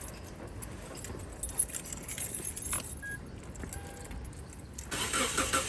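Car keys jangling with scattered small clicks and knocks, getting louder and busier near the end.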